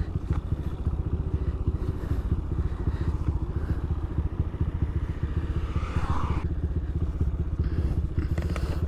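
Motorcycle engine idling at a standstill, a steady low rumble with a fast, even pulse, with light clatter from a rear-view mirror being handled and fitted to the handlebar.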